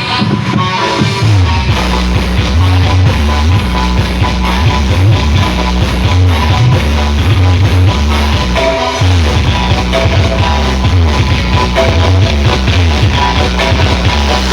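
Loud remixed music played through a large carnival sound system, with heavy pulsing bass that comes in about a second in.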